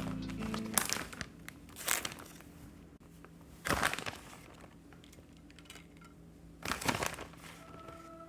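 Crinkling rustles in four short bursts, like a wrapper or packaging being handled.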